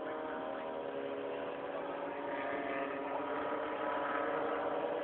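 Ginetta race car's engine running with a steady drone, heard from inside the cabin.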